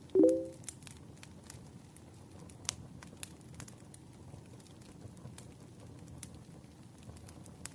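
Wood campfire crackling, with scattered sharp pops over a low steady rustle. Just after the start, a brief loud low tone sounds once and dies away within half a second.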